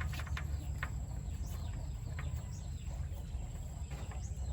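Small birds chirping in short, falling calls over a steady low rumble, with a few sharp clicks in the first second.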